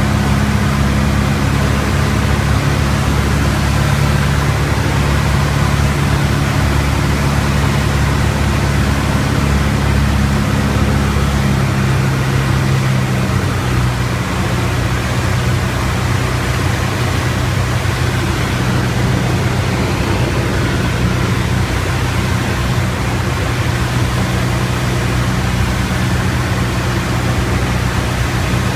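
Piper Tomahawk's four-cylinder Lycoming engine and propeller droning steadily in flight. The pitch drops slightly about 13 seconds in as the power comes back a little.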